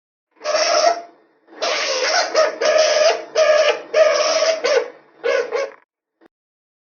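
A skunk calling: a run of about seven short, rough-edged calls in quick succession, the first one set a little apart from the rest.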